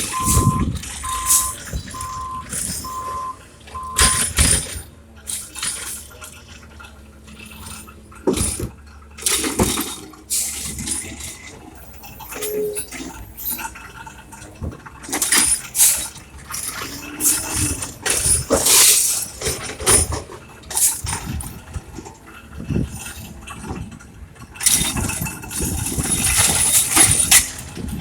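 Recycling truck's back-up alarm beeping a little more than once a second, stopping about four seconds in, then recyclables clattering and crashing into the hopper again and again over the truck's engine running.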